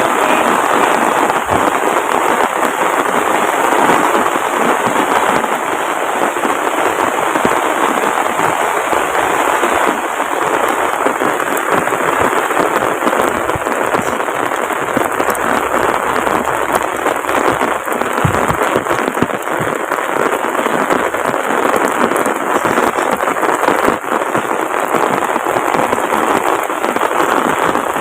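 Heavy rain pouring down in a steady, dense, loud hiss with a crackling patter of drops.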